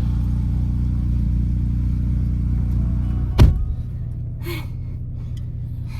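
Car engine idling, a steady low rumble heard inside the cabin, with a single car door thud about three and a half seconds in, after which the rumble is quieter.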